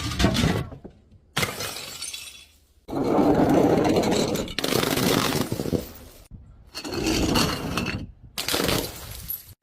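Glass bottles breaking and shattering, one after another: about six separate crashes with crunching and tinkling shards, each cut off abruptly.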